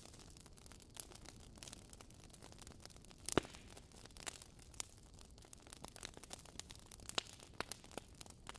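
Wood fire crackling: a soft low hiss with irregular sharp pops and snaps, the loudest a little over three seconds in.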